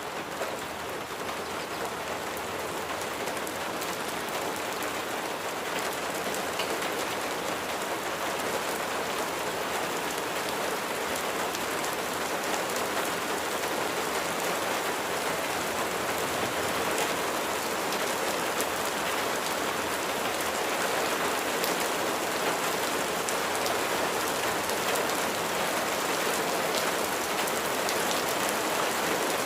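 Steady rain falling, a dense patter of drops, growing gradually louder.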